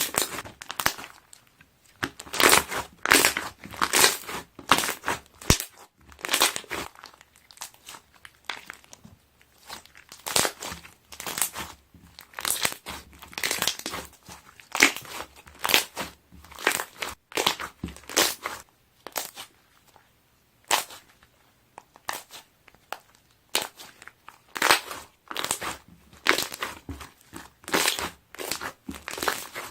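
Slime being pressed and squeezed by hand, trapped air bubbles popping in quick crackling clusters, a couple of clusters each second with short pauses between.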